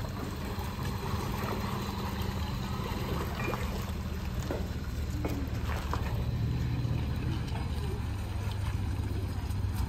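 Suzuki Alto hatchback's small three-cylinder petrol engine running steadily at low speed as the car creeps through muddy puddles, with its tyres sloshing through the water.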